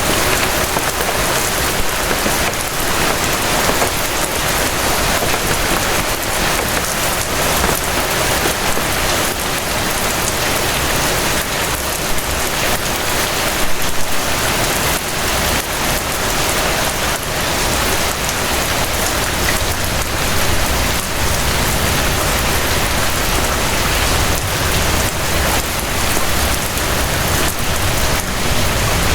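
Steady rain falling, a dense even patter of drops on surfaces. A low rumble builds underneath in the last several seconds.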